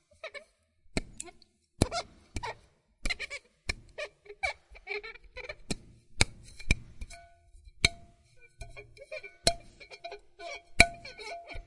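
Glass squeaking as it is rubbed: an irregular run of short, high squeaks mixed with sharp clicks, with some longer held squeaks in the second half.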